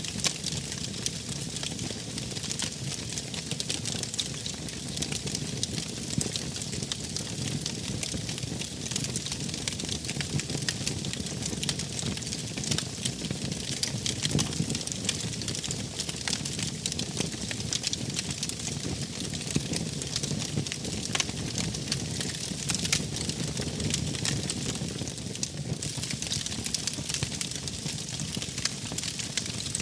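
Wood fire crackling: a steady hiss with frequent sharp pops and snaps.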